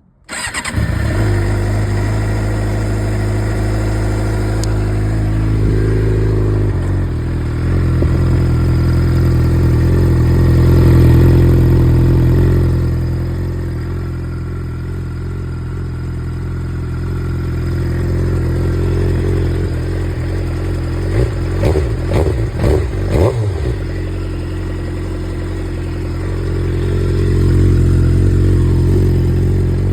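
2007 Suzuki GSX-R inline-four motorcycle engine with a Jardine GP-1 aftermarket exhaust starting up just after the opening, then idling steadily, with its idle note changing about a quarter of the way through. About two-thirds of the way in comes a short run of quick throttle blips.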